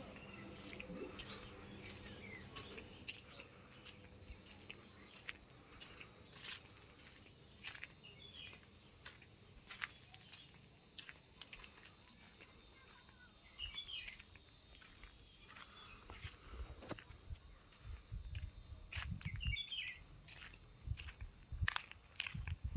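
Steady high-pitched insect chorus, with a few short bird chirps and some low thumps near the end.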